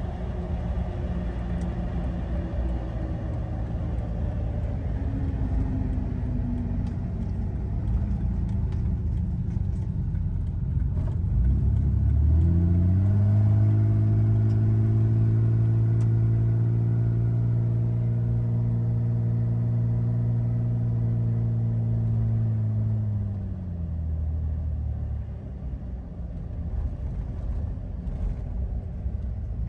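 The 4.0-litre straight-six of a 2005 Jeep Wrangler TJ running on the road, heard from inside the cab along with tyre and road noise. The engine note falls over the first several seconds. A strong steady drone comes in about twelve seconds in, holds for about ten seconds, and dies away shortly after.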